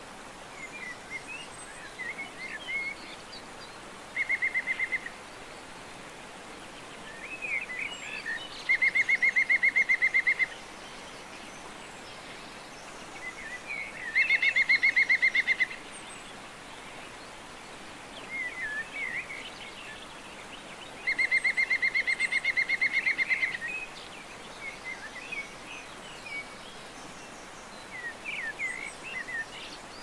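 Birds: four loud bursts of a rapid trill at one steady pitch, the longest about two and a half seconds, over scattered short chirps.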